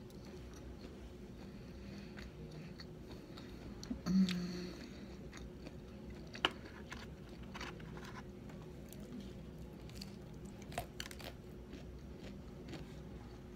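Close-up chewing and crunching of crisp fried wontons, with scattered small mouth clicks. A louder short sound with a brief hum comes about four seconds in, and a single sharp click about six and a half seconds in.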